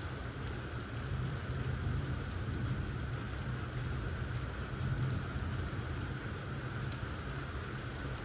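Steady rainfall in a thunder shower, an even hiss with a low rumble underneath that swells about two seconds in and again around five seconds.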